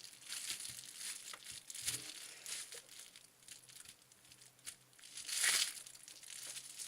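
Rubber eraser of an erasable gel pen rubbing ink off skin: a run of quick, scratchy rubbing strokes, with one louder swish about five and a half seconds in.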